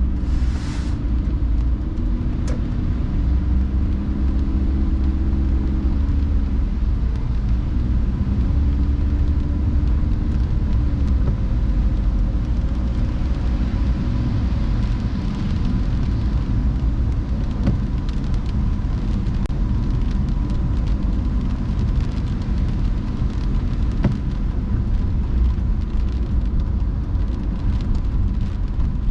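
Car driving on wet roads in the rain: a steady low engine and tyre rumble, with the engine's hum shifting in pitch during the first ten seconds, and scattered small ticks of rain later on.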